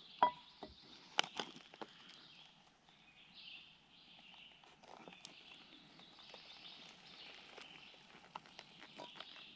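Handling of a camp cook pot and a meal pouch while boiling water is poured in: a sharp ringing metal clink just after the start, then a few light clicks and small handling sounds, over a faint steady high hiss.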